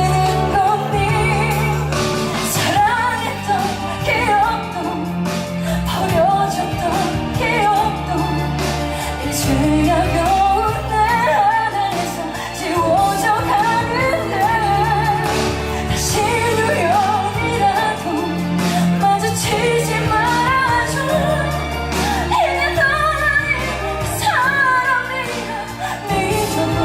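A woman singing a melodic song over instrumental accompaniment with a steady bass line.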